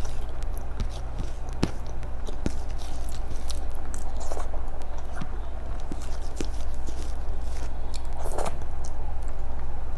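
Close-miked chewing of a mouthful of chicken biryani rice eaten by hand, with many small wet mouth clicks and fingers scraping the last grains off the plate, over a steady low hum.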